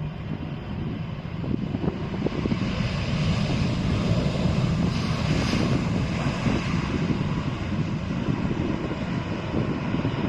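Airliner jet engines rumbling as a plane passes low overhead on its landing approach, with a slight swell in the hiss about halfway through.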